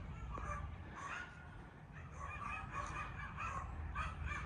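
Dogs barking repeatedly over a steady low rumble.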